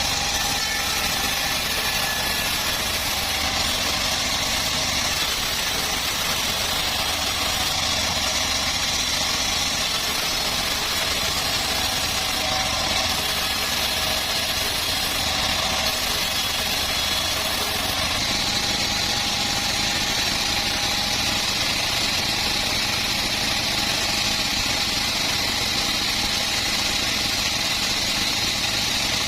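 Homemade bandsaw sawmill running steadily while it saws a teak log, a continuous machine drone with a high hiss-like whine that grows a little stronger about two-thirds of the way through.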